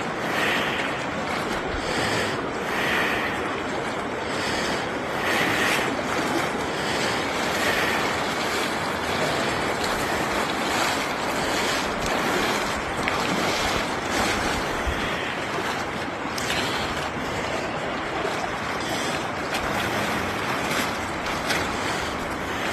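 Steady rush of water and wind noise on the microphone, with no distinct tones.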